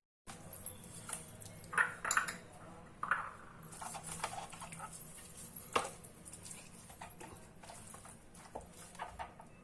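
Hands rubbing a salt, turmeric and colour marinade into raw chicken pieces: quiet, irregular wet handling sounds with a few light clicks and knocks against the dish.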